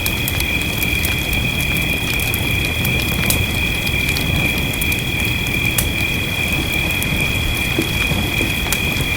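Fireplace crackling with many small, irregular sharp pops over a steady rush of rain. A constant high-pitched drone, like a frog or insect chorus, runs underneath throughout.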